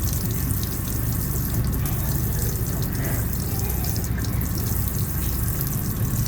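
Water running steadily, as from a tap.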